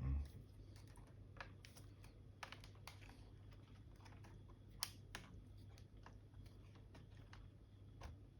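Faint, scattered plastic clicks and taps from a Dell Latitude E7440 laptop keyboard being worked free of its retaining clips. A dull bump opens the sound, and the sharpest click comes a little before halfway.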